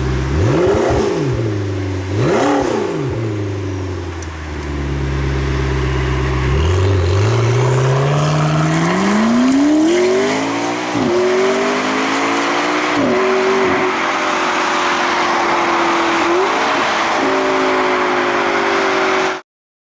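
McLaren 650S Spider's twin-turbo V8 heard from inside the car: two quick rev blips, then a hard pull rising in pitch with quick upshifts, settling into steady running under rising wind and road noise. The sound cuts off abruptly near the end.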